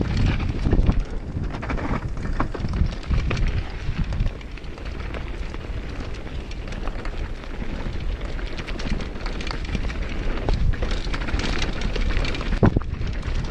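Mountain bike riding a rough downhill trail at speed: wind buffeting the microphone over a steady rumble, with tyres on dirt and rocks and the bike rattling in frequent sharp clicks and knocks, one hard knock near the end.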